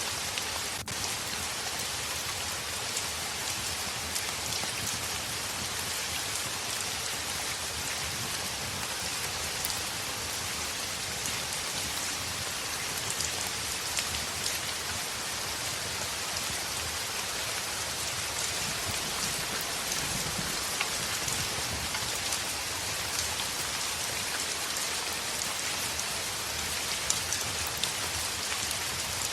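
Heavy rain falling steadily on a window: a constant hiss scattered with many small ticks of drops.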